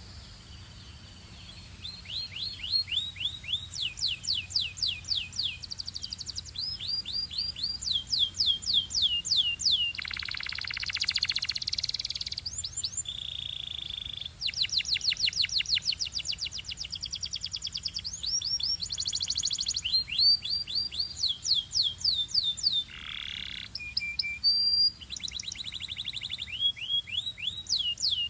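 Belgian canary singing: after about two seconds, a continuous song of fast-repeated, high falling notes delivered in rolling tours, changing now and then to a buzzy phrase or a short steady whistle.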